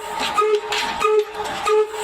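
22 HP diesel oil engine running, its exhaust giving a regular hooting beat, three strokes in two seconds.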